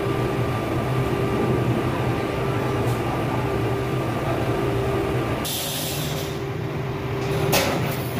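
Machinery running steadily with a low engine hum. About five and a half seconds in a high hiss starts, and a sharp knock comes near the end.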